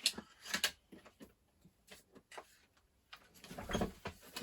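A few sharp clicks and light ticks of small parts being handled on a workbench, with handling noise near the end.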